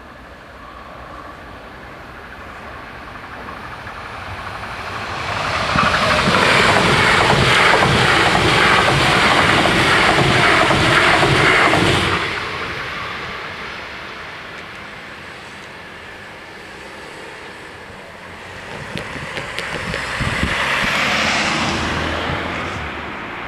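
Bombardier Talent 2 electric multiple unit passing over the level crossing. It swells in over a few seconds into a loud rush with rhythmic wheel clatter for about six seconds, then drops away abruptly. Later a car drives over the crossing with a few knocks as it crosses the rails.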